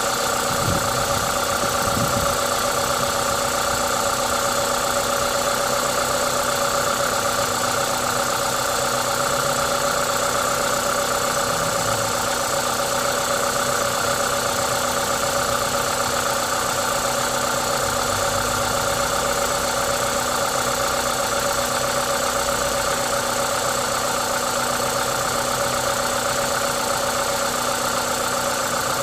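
Toyota 2ZZ-GE four-cylinder engine idling steadily, with the hiss of an aftermarket induction kit over it; this is the engine's normal running noise, not a fault.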